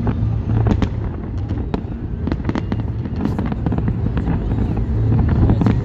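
Aerial fireworks display: many sharp bangs and crackles from shells bursting, coming irregularly and often in quick succession, over a steady low rumble.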